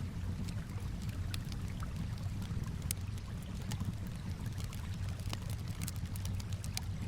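Campfire crackling, with frequent sharp irregular pops and snaps, over a steady low wash of calm water.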